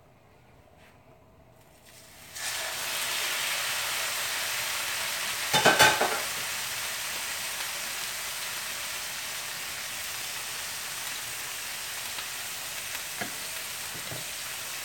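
Raw chicken pieces dropped into hot oil in a skillet start sizzling suddenly about two seconds in, then fry with a steady hiss. A brief clatter about six seconds in is the loudest moment.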